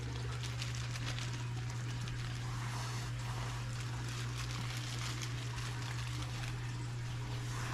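Steady hum of an aquarium filter pump with water trickling, running evenly throughout.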